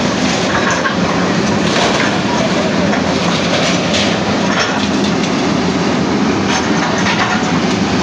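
Demolition work: a heavy machine's engine running steadily, with repeated knocks and clatter of material breaking.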